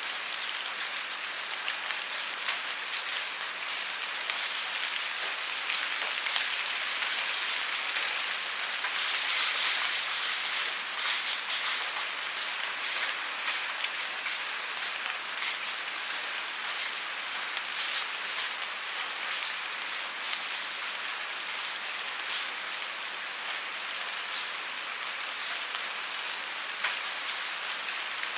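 Steady rainfall: a dense, even hiss of rain with many individual drops ticking through it. It swells slightly around nine to twelve seconds in.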